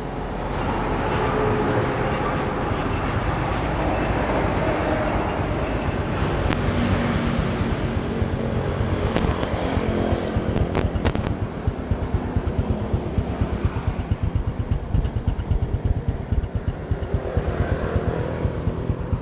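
Honda Future Neo GT's single-cylinder four-stroke engine idling with an even exhaust beat, steady and quiet as a sound engine should. A few sharp clicks come about halfway through.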